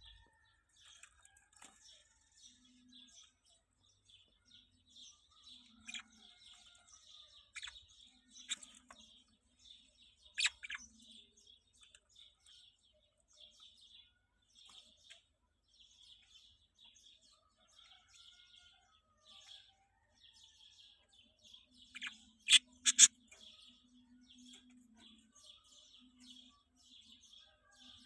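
Small birds chirping and twittering all the way through, with several loud sharp calls standing out, once about ten seconds in and a quick cluster of them about two-thirds of the way through.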